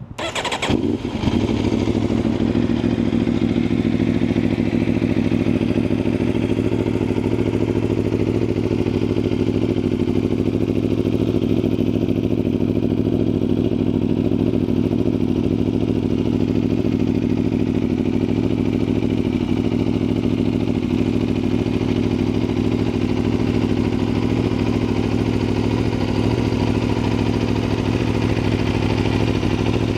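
Aprilia RSV4's V4 engine starting: a brief crank and catch at the start, then idling steadily through an Akrapovič exhaust.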